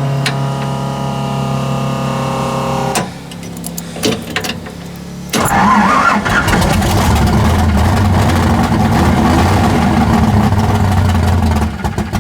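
Car engine being started: the starter cranks steadily for about three seconds, there is a short pause with a few clicks, then the engine fires about five seconds in and keeps running loudly.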